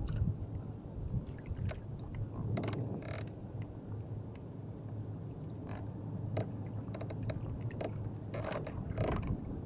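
Water lapping and splashing against the hull of a small jukung canoe, with a few short splashes or knocks over a steady low rumble.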